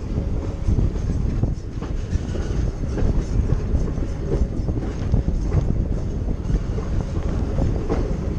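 A passenger train in motion, heard from aboard a car just behind diesel-electric locomotive 2641: a steady low rumble of wheels on track, with irregular clicks and clatter over it.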